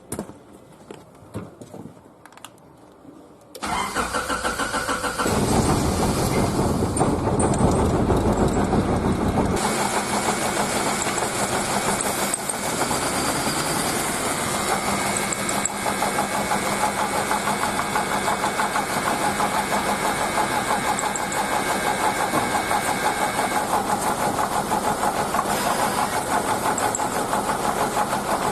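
A few light clicks of a screwdriver working the ignition switch in place of the broken lock cylinder. About three and a half seconds in, the starter cranks briefly and the car's distributor-ignition engine catches. It runs fast and loud for about four seconds, then settles to a steady idle.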